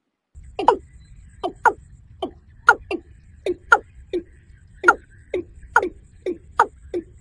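Watercock (kora) calling: a rapid, uneven series of short notes, each falling in pitch, about three a second. A low steady hum comes in just after the start.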